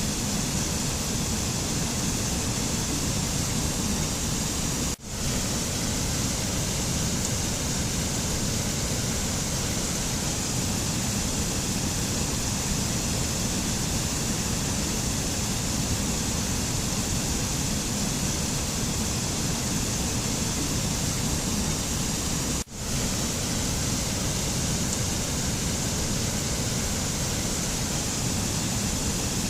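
Steady rushing noise of a mountain nature ambience, with no tones or rhythm. The sound drops out for an instant twice, about five seconds in and again about three quarters of the way through, like seams in a looped recording.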